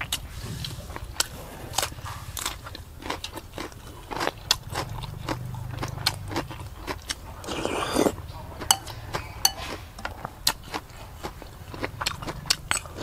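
Close-up chewing and crunching of crisp raw vegetables, with many sharp clicks and snaps throughout and a short rasping burst about eight seconds in.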